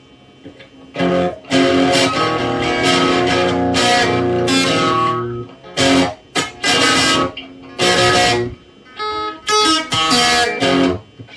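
Electric guitar played through a Boss DS-1 distortion pedal into an amplifier's clean channel: one long sustained chord starting about a second in, then a series of shorter chords with brief breaks between them.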